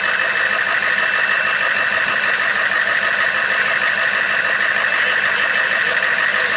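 Engine of a big lifted Jeep monster truck running steadily under way, loud and unchanging throughout.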